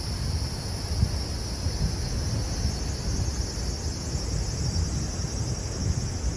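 Strong typhoon wind buffeting the microphone: a continuous, uneven low rumble that rises and falls in gusts, over a steady high hiss.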